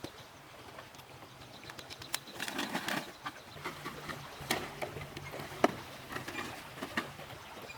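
Irregular light clicks and knocks, a few a second in clusters, with one sharper knock a little past the middle, over a faint low hum.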